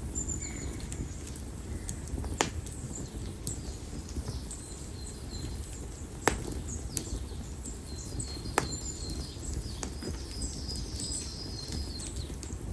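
Konara oak firewood burning in an open campfire: a steady low rush of flame broken by three sharp crackling pops and a few fainter ones. Small birds chirp in the background, most in the last few seconds.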